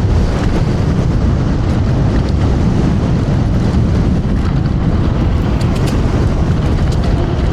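Strong wind buffeting a clip-on microphone, a loud, steady, rough rumble with no clear pitch.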